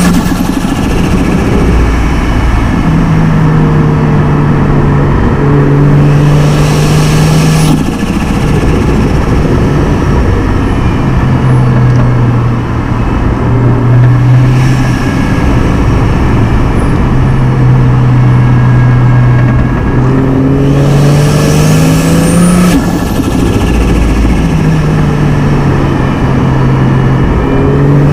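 Inline-six car engine under way on a winding road, loud and steady. Its pitch holds for stretches, then steps up and down several times with throttle and gear changes, climbing about three-quarters of the way through before dropping back.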